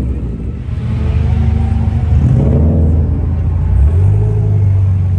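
Car engine running at low revs, its pitch stepping up about four seconds in.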